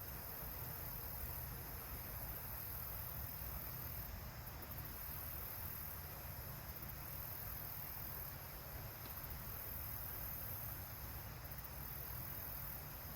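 Steady chorus of insects, a high-pitched shrill that swells and fades in slow pulses, over a low steady rumble.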